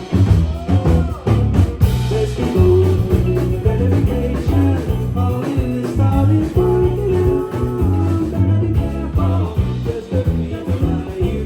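A rock band playing live, with electric guitar over a steadily pulsing bass and drums.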